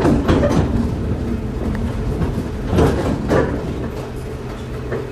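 Cabin noise of a JR West 105 series electric train in motion: a steady low rumble with a few knocks from the wheels and car body, including two close together about three seconds in. It grows a little quieter near the end as the train slows for a station.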